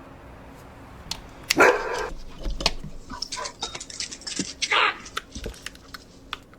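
A dog barking, with two louder barks about a second and a half in and again near five seconds.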